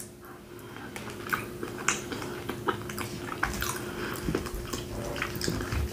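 Close-miked chewing of a mouthful of BBQ baked beans, with soft wet mouth sounds and many small irregular clicks.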